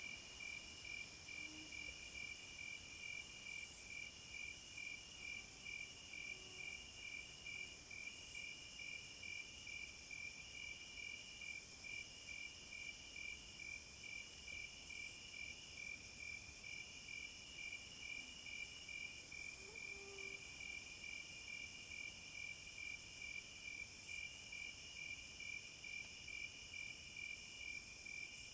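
A chorus of crickets and other night insects at midnight in a forest: one keeps up a fast, even pulsed trill, while others chirp in spells that stop and start every second or two, including a very high, thin buzzing.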